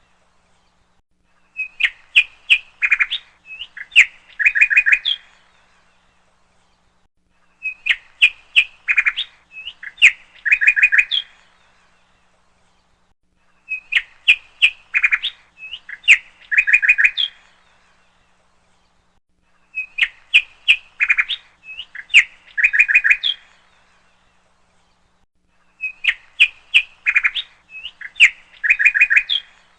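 Bird chirping: a burst of quick, high chirps lasting about four seconds, repeated identically about every six seconds, like a looped bird-sound recording.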